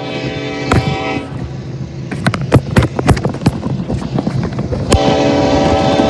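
Diesel freight locomotive's air horn sounding a steady chord: a short blast at the start, then a longer one beginning near the end. Sharp irregular knocks and rumble from the passing train run underneath.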